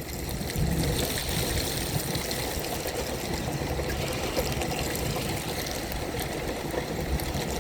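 Wheelchair tyres rolling through rainwater on a wet road, a steady wet hiss and wash of water.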